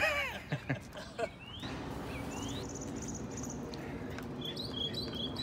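Small birds chirping with short rising calls, over a steady low hum that sets in about a second and a half in.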